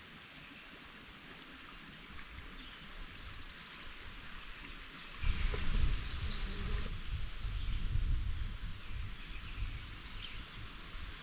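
Woodland birds calling: thin, high chirps repeating about twice a second over a steady hiss, with a busier run of song notes about five to seven seconds in. A low rumble comes in about five seconds in and stays.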